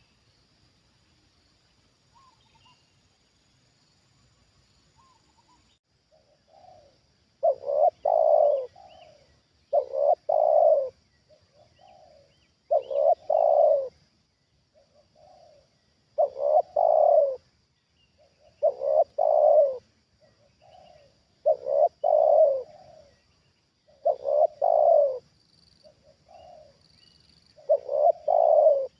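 Spotted dove cooing: a repeated phrase of a soft lead-in note, two loud coos and a short trailing note, coming about every three seconds after a quiet first seven seconds. Faint chirps of small birds and a steady high hiss run behind it.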